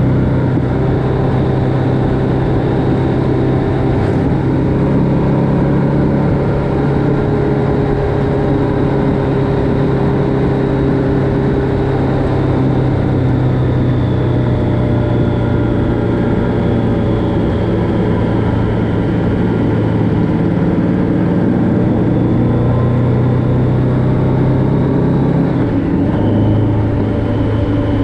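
Motorcycle engine running at a steady cruising pitch with wind rush. The engine note briefly dips near the end, then settles again.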